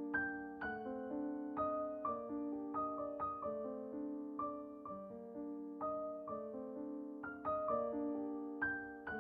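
Background music: gentle solo piano, notes struck at an unhurried pace and left to ring over held chords.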